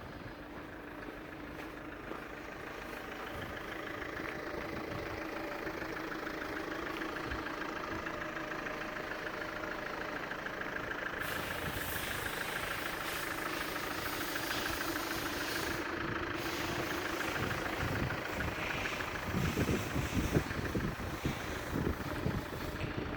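Chevrolet Windstorm SUV engine idling steadily, with irregular low rumbling bumps near the end.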